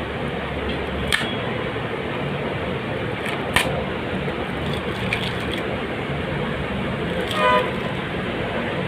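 Steady background traffic noise with a short vehicle horn toot about seven and a half seconds in, and two sharp clicks earlier on.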